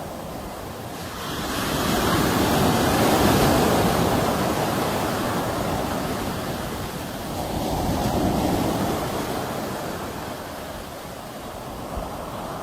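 Sea waves washing in: a large swell of surf builds about a second and a half in and slowly recedes, then a smaller wave surges in around eight seconds in and fades.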